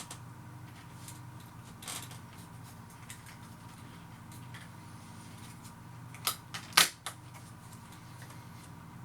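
Crisp whole-grain cracker being chewed, giving scattered sharp crunches and clicks; the two loudest come close together about six and a half seconds in. A steady low hum runs underneath.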